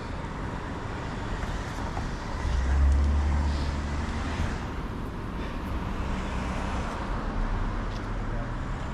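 Steady traffic and road noise heard from a moving bicycle, with a deeper rumble that swells about two and a half seconds in and fades a couple of seconds later.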